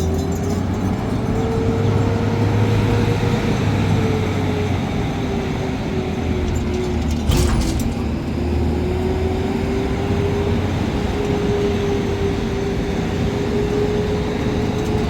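An engine running steadily over a low rumble, its pitch drifting slightly up and down. There is one short click about halfway through.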